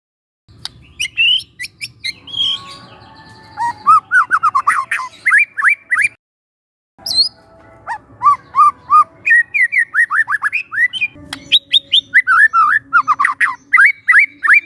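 Young wild white-rumped shama singing: fast runs of short, sweeping whistled notes mixed with sharp clicks, in two long phrases broken by a second of silence about six seconds in.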